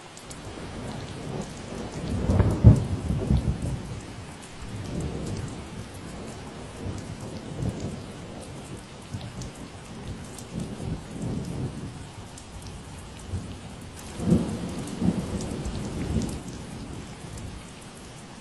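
Steady rain falling, with bouts of deep, crackling rumbles rising over it about two seconds in and again near the end.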